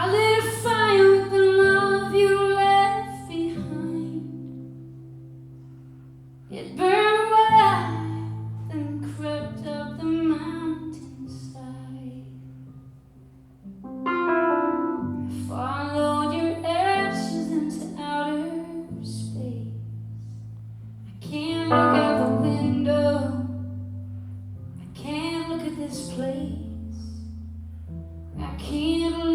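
A woman singing a slow ballad live, in long phrases that each fade out before the next begins every several seconds, over held low chords from the band.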